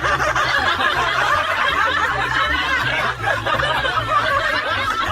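Laughter from many voices at once, a dense, steady chatter of overlapping laughs, with a low drone underneath.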